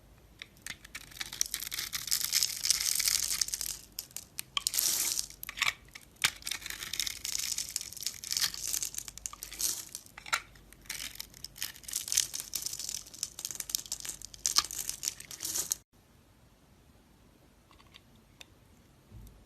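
Blade scraping and shaving a bar of soap in quick, crisp strokes, with a brief pause about four seconds in, then stopping suddenly a few seconds before the end.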